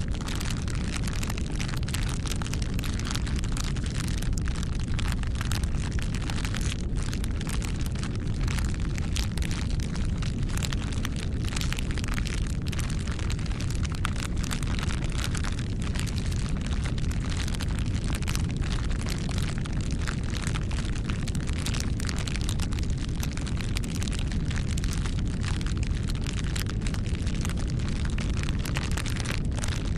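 Wood fire burning: a steady low rumble of flames with many small crackles and pops.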